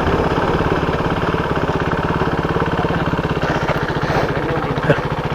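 KTM motorcycle's single-cylinder engine idling steadily, with even firing pulses, while the bike waits at a stop.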